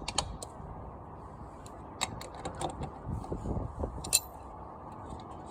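Scattered metallic clinks and taps of tools and parts being handled, with the loudest a sharp clank about four seconds in.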